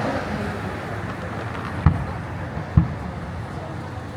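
Two fireworks shells bursting, a little under a second apart, as sharp deep booms over steady outdoor background noise.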